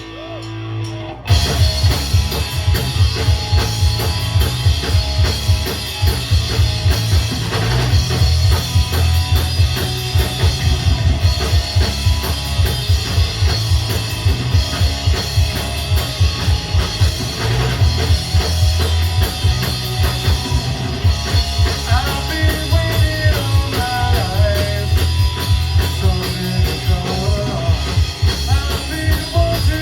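Rock music with a full drum kit, bass and guitar, kicking in abruptly about a second in after a quieter guitar passage and keeping a steady, fast beat.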